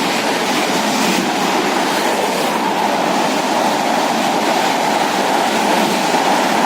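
Train in motion: a steady, loud rushing rumble of wheels on rail, with no breaks or changes.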